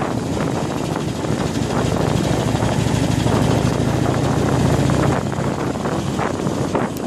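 Harley-Davidson Iron 883's air-cooled 883 cc V-twin engine running under way on a rough off-road track, pulling steadily and then easing off about five seconds in.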